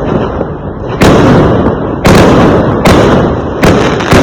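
Fireworks exploding: four loud bangs about a second apart, each a sudden crack followed by a rumbling decay.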